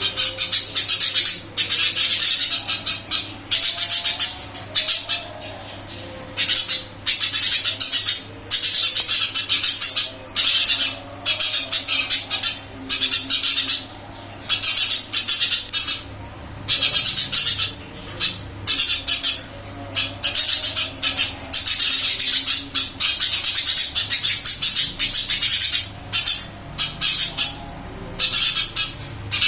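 Eurasian tree sparrow chirping busily in rapid bursts of high, harsh chirps. Each burst lasts about a second, with short pauses between. It is a lively, vocal bird.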